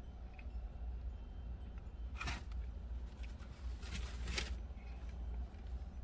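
Paper wrapping rustling in two brief bursts, about two seconds in and again around four seconds in, over a low steady rumble.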